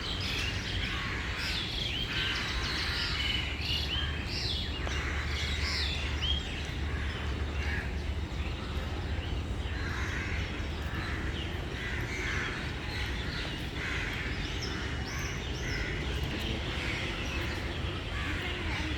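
Many birds calling and chirping, short calls overlapping throughout, over a steady low rumble.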